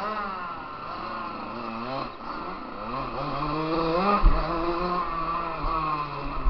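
KTM motocross bike's engine heard from on the bike, revving up and dropping back several times as it accelerates through the gears. A heavy thump about four seconds in, the loudest sound, is followed by a smaller one as the bike hits the rough dirt.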